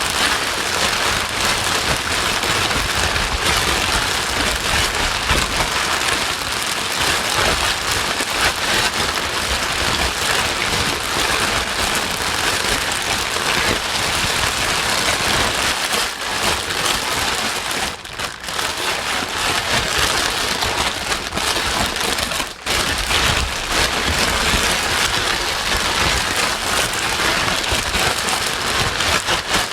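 Steady white noise with a dense, rain-like hiss, dipping briefly twice in the middle.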